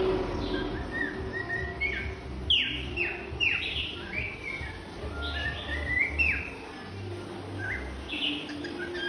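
Birds chirping: a rapid series of short calls, several of them sweeping sharply down in pitch, busiest and loudest in the middle.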